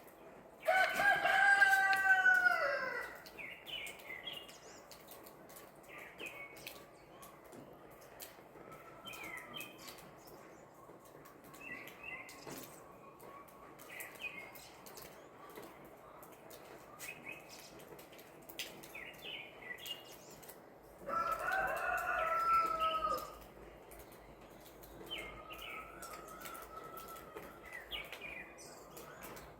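A rooster crows twice, about 20 seconds apart, each crow about two seconds long and falling in pitch at the end. Small birds chirp briefly in between over a faint steady patter of rain.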